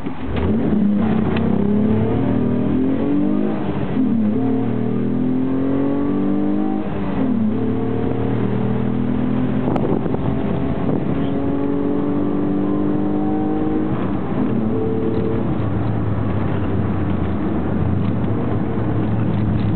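Mk2 Ford Mondeo ST24's 2.5-litre V6, with pod filter, short headers and a 2.5-inch exhaust, accelerating hard from a standstill, heard from inside the cabin. Its pitch climbs and drops back at each of about three upshifts, with a long steady pull in between.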